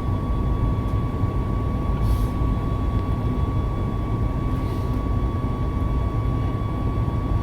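Boeing 737 MAX 8's CFM LEAP-1B turbofans and airflow heard from inside the forward cabin during take-off: a steady low rumble with a thin, steady high hum over it.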